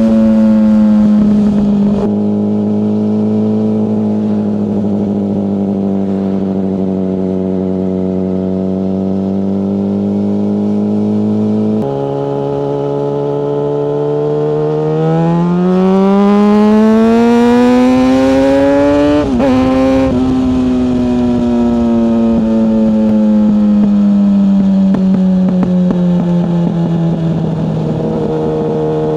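Yamaha FZ6 S 600cc inline-four motorcycle engine heard from the rider's seat while riding. It holds a steady note at first, then rises as the bike accelerates, with a sharp break at a gear change about two-thirds in, and then falls slowly as the bike slows.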